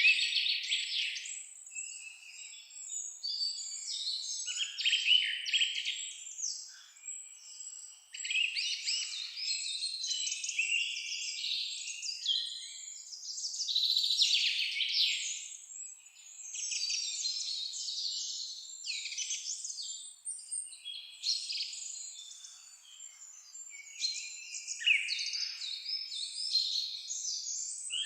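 Several songbirds singing and chirping at once, rapid high trills and twitters overlapping throughout, with brief lulls between phrases.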